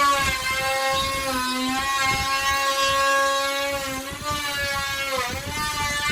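Electric wood router running with a steady pitched whine as it cuts into the door. Its pitch sags and recovers as the bit bites harder, at the start and again about five seconds in.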